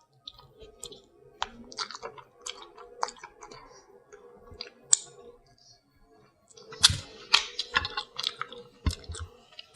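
Close-up eating sounds: sharp clicks and crackles of seafood shell being picked and cracked, mixed with chewing. They come in scattered bursts and get busier about seven seconds in.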